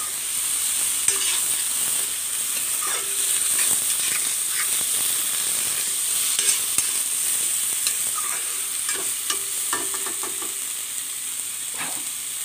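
Eggplant and potato pieces sizzling in hot oil in a steel kadai while being stirred, with a steady frying hiss and frequent short scraping clicks from the stirring.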